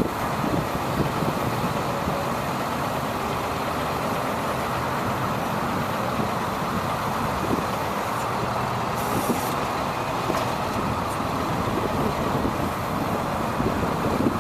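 2002 International mechanics truck running, a steady rumble of engine and road noise, with a brief hiss about nine seconds in.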